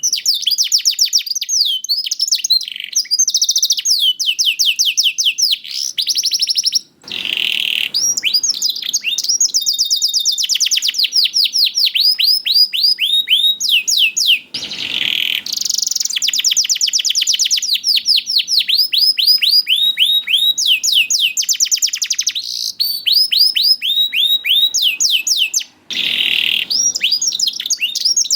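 Canary singing: long, rapid trills of repeated quick falling notes, changing from one trill to the next, with three brief pauses.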